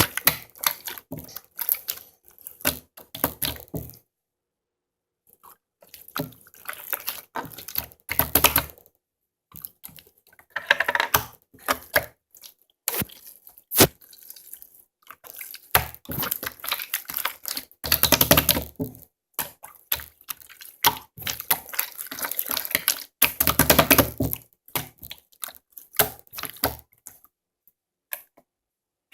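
Slime being squished and worked by hand: wet squelching with crackly little clicks and pops, in irregular bursts broken by short pauses.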